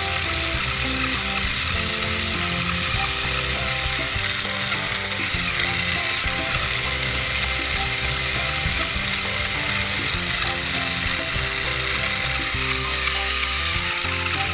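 Small battery-powered toy train engines running flat out, a continuous gear-rattling whir from their plastic gearboxes, over light background music.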